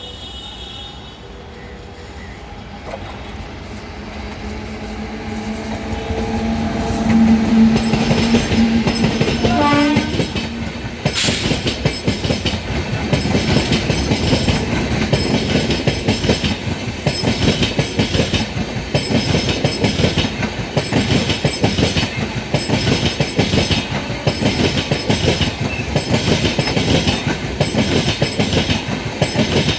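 An express train hauled by a WAP-7 electric locomotive approaches with a rumble that grows louder. The locomotive sounds a held horn for about four seconds, and the pitch drops as the engine passes. After that the coaches' wheels clatter over the rail joints in a steady, fast rhythm.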